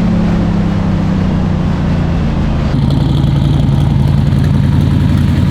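Drag race car engine running loud and steady, its pitch easing slightly down. About three seconds in it switches abruptly to a lower, rougher engine note.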